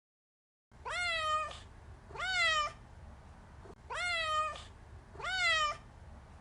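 Domestic cat meowing four times, in two pairs, each meow a short rise then fall in pitch.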